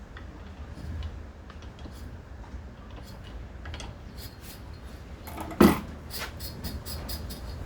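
Metal hand tools and parts clinking and clattering during the teardown of a small two-stroke trimmer engine. There is one loud clank a little past halfway, followed by a quick run of light clicks.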